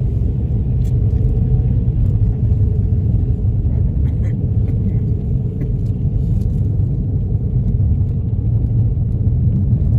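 Steady low rumble of a small car driving on a snow-covered road: tyre and engine noise from the moving car.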